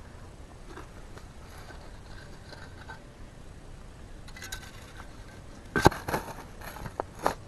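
Digging in yard soil for a buried metal target: a few sharp knocks and scrapes of a hand tool in the dirt, the loudest a little before the end. A faint, thin metal detector tone sounds briefly twice before the digging noises.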